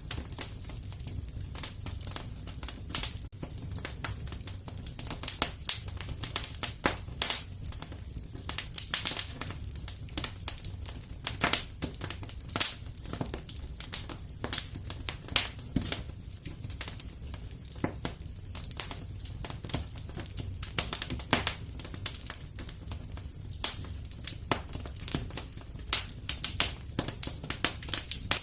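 Wood fire crackling steadily in a fireplace: frequent irregular pops and snaps over a low rumble of the burning logs.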